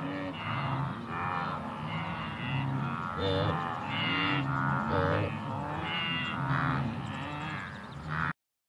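A herd of bovids calling: short, moo-like lowing grunts from several animals at once, overlapping and repeating every second or so. The sound cuts off abruptly near the end.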